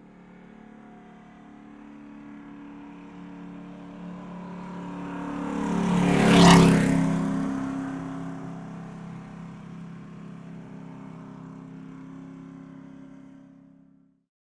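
A car passing by with its engine running: a steady engine note that builds to a loud peak about six and a half seconds in as it goes past, then fades away.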